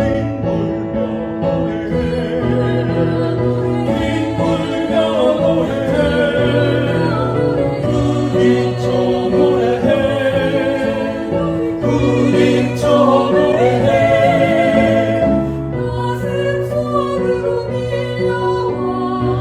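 Small mixed vocal ensemble of soprano, alto, tenors and bass singing in close harmony with piano accompaniment, holding long notes with vibrato.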